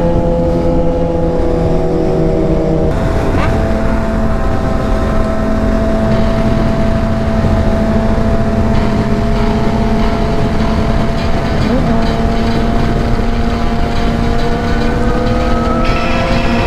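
Honda CBR600RR's inline-four engine running at steady revs while riding along, with wind noise, its pitch drifting slowly. Twice, about three seconds in and again near twelve seconds, the pitch briefly rises and falls.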